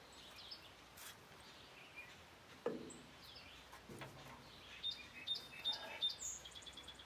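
Faint birdsong: short high chirps, with a quick run of repeated notes near the end. A few light clicks and one sharper knock come a little before halfway.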